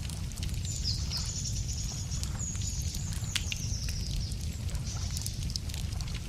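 Wood fire crackling with scattered sharp pops over a steady low rumble. A small songbird sings a high, buzzy trill for about three and a half seconds, starting about a second in.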